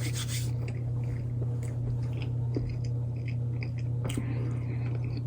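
Close-up chewing of a bite of chicken BLT sandwich, soft wet squishes with small crackles, over a steady low hum.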